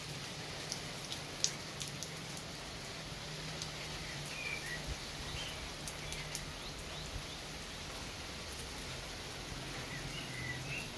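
Outdoor nature ambience: a steady hiss with scattered sharp ticks and a few short, faint bird chirps.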